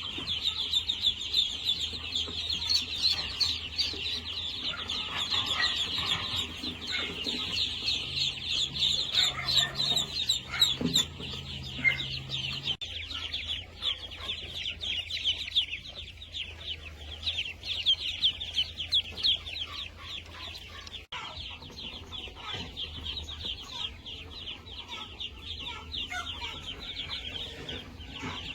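A flock of chickens calling, a dense chorus of short, high chirps overlapping without a break, with some lower clucking mixed in during the first half.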